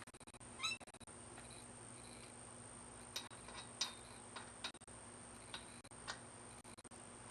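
Faint scattered clicks over a steady low hum and a thin high whine, with a short wavering high squeak about half a second in.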